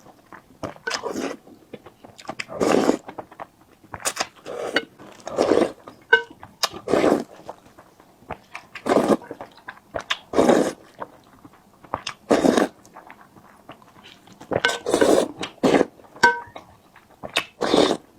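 Close-miked mukbang eating sounds: wet chewing and mouth noises in short bursts about every second or so, with pauses between.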